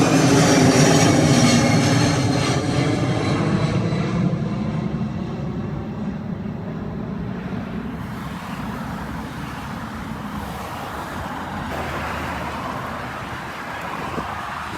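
Jet airliner's engines passing close overhead: several whining tones slide down in pitch during the first few seconds, then the roar fades steadily as the plane moves away.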